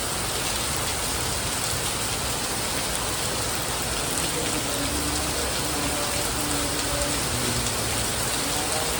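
Steady rain falling, an even hiss of drops on surfaces that keeps the same level throughout.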